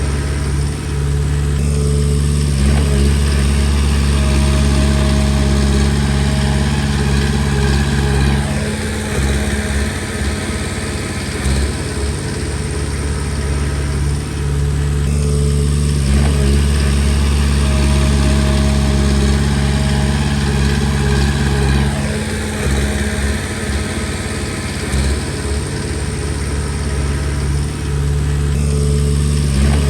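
Diesel engine of a Komatsu D20P bulldozer running steadily as it works, its low drone strengthening and easing in a repeating cycle about every six to seven seconds.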